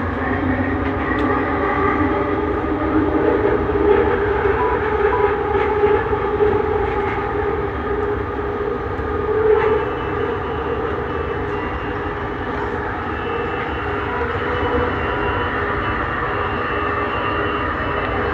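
Bombardier Innovia Metro 300 train running between stations, heard from inside the car: a steady rumble of wheels on rail with a humming drone. There is a brief louder bump about halfway through, and a faint high whine comes in soon after.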